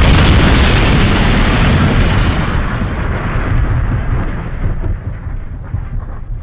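A sudden loud blast, followed by a deep rumble that slowly dies away over several seconds.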